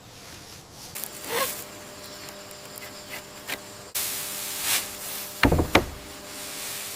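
Dry reed bundles rustling and rubbing as they are handled and pulled tight, with a brushy swish about a second in. Two short, heavy thumps come past the five-second mark.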